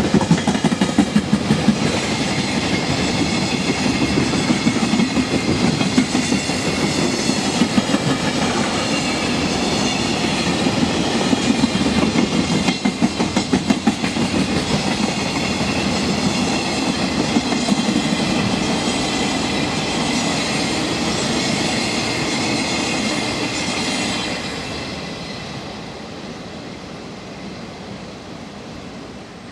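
A JR Freight container train, behind an EF210 electric locomotive, running past close by. Its wagons' wheels clatter over the rail joints, and the sound fades away about 24 seconds in as the end of the train passes and recedes.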